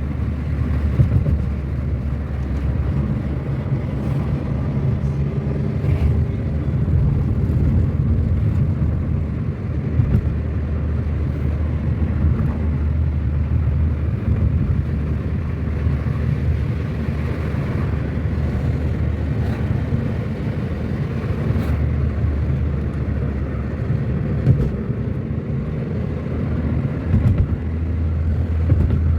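Car driving along a road: steady low engine and road rumble, with a few light knocks.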